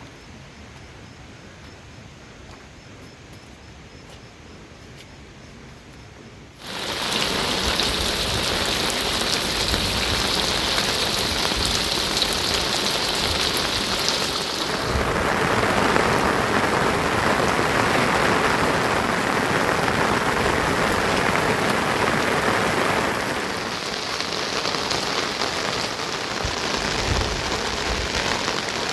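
A faint hiss, then about seven seconds in a sudden jump to rain falling steadily and loudly. Its hiss sits lower in pitch for several seconds in the middle.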